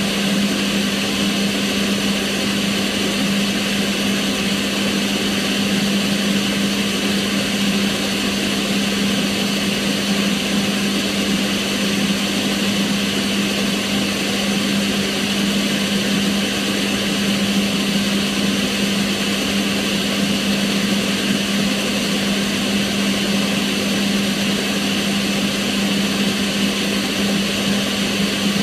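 Kitchen range hood extractor fan running steadily: an even rushing of air with a constant low hum and a fainter high whine.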